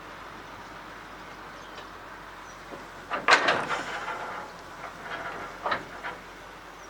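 Metal clanks and knocks: a sharp cluster with some ringing about three seconds in, then a few lighter knocks around five to six seconds in, over a steady background hum.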